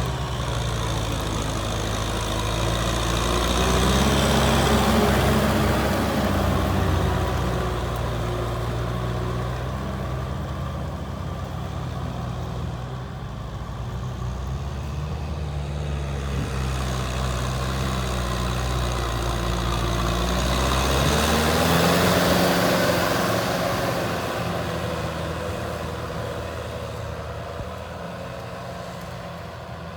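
Tractor engine running with a steady low drone, growing louder about five seconds in and again around twenty-two seconds, where its pitch rises, then fading toward the end.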